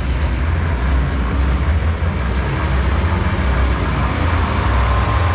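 A car doing a burnout: loud, steady engine and spinning-tyre noise over a heavy low rumble.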